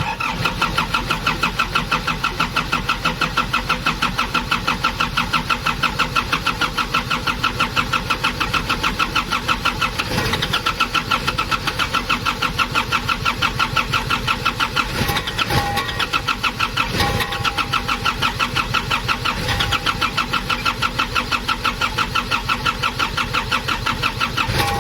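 Starter motor cranking the Nissan ZD30 four-cylinder diesel in a long, even, pulsing rhythm for about 25 seconds without the engine catching, then stopping abruptly: the no-start fault is not yet cured.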